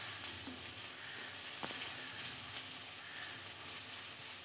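Sliced onions and spice masala sizzling steadily in hot oil in a non-stick kadai while being stirred with a wooden spatula, with one light tap about one and a half seconds in.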